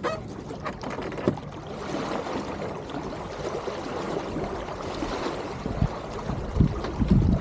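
Water rushing and gurgling along the hull of an Elliott 7.4 sailing keelboat under way, swelling through the middle, with a few sharp clicks early on and low thumping gusts near the end.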